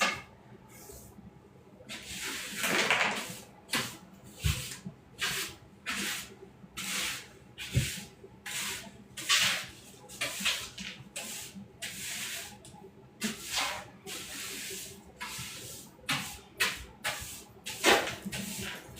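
Household cleaning noises: a long run of short rustling, scrubbing or spraying strokes, about one or two a second, with a couple of dull knocks.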